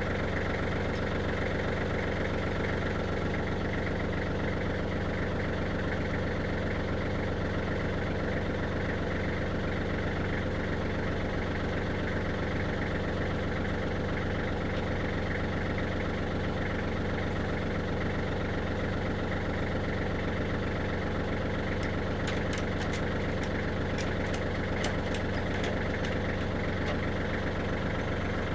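Tractor engine idling steadily, with a few light clicks near the end.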